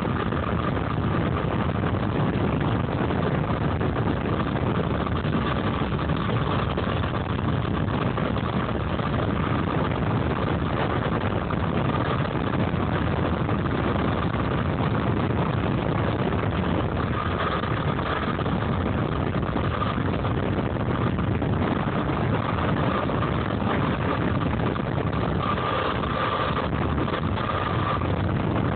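Home-built DC electric dirt bike riding along: a steady high motor whine over a rushing haze of wind and tyre noise, the whine swelling briefly a couple of times.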